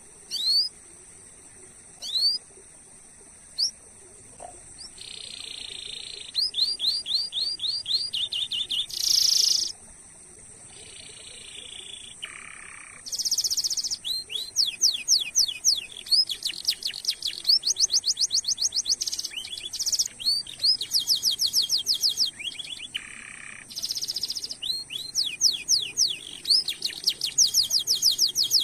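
Domestic canary singing. A few sharp down-slurred chirps come first, then from about five seconds in a long song of rapid rolling trills and buzzy repeated notes, over a faint steady high whine.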